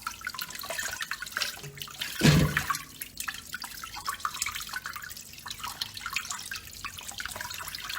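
Tap water running into a kitchen sink with splashing and small knocks as raw chicken pieces are rinsed by hand. About two seconds in there is one louder thump or splash.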